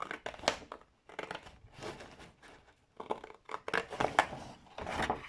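Scissors cutting through sheet card, a run of snips broken by short pauses.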